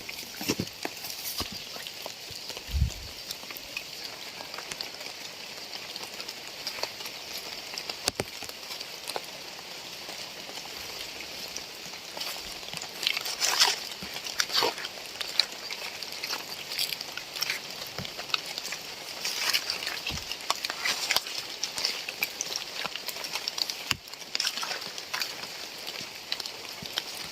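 Rain falling, a steady hiss with many sharp, close drop impacts crackling through it, coming thicker in two spells around the middle. A single dull low thump sounds about three seconds in.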